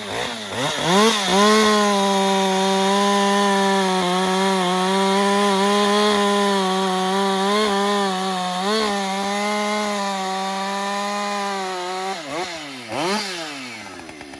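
Husqvarna 550 XP 50cc two-stroke chainsaw, hot, revved up and held at full throttle for about ten seconds with small dips in speed. It then drops back and is blipped twice before it settles.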